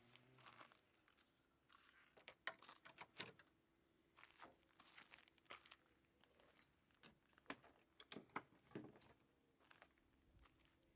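Faint, irregular clicks and knocks, with clusters of sharper ones a couple of seconds in and again about eight seconds in.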